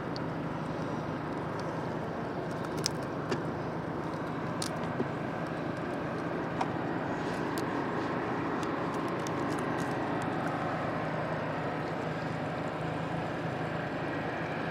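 Boat motor running steadily with a low hum, with a few light clicks and taps over it.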